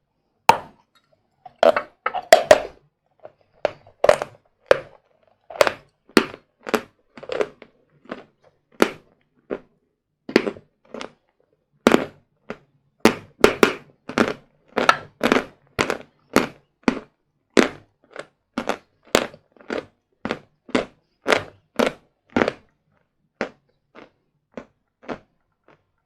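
Close-up crunching of hard, dry sawn Vatutin chalk being bitten and chewed, a rapid series of sharp crisp cracks, about one to two a second, growing sparser near the end.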